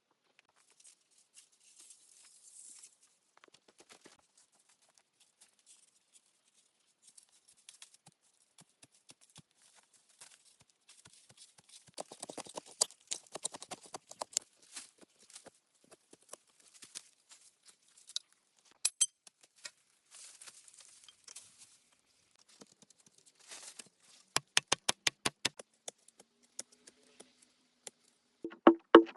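Irregular taps, clicks and scraping from hand work on materials, with a quick run of sharp, evenly spaced strokes about two-thirds of the way through.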